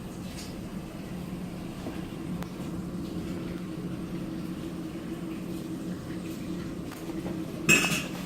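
Storm wind rumbling with a steady low hum underneath, and one loud sharp knock near the end.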